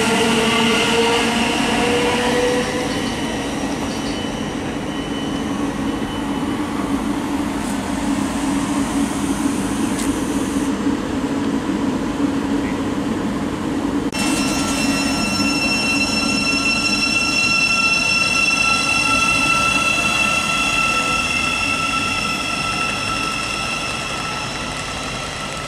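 A train running on the rails: a motor whine rises at first over a steady rumble of wheels, and a little past halfway a set of steady high-pitched whining tones comes in abruptly.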